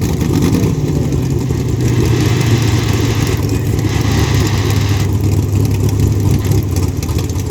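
A loud vehicle engine running steadily at idle, with a low even pitch, at a 4x4 truck pull.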